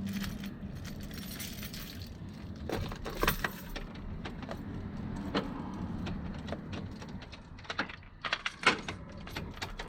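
Keys jangling, with scattered sharp clicks and knocks, clustered about three seconds in and again near the end.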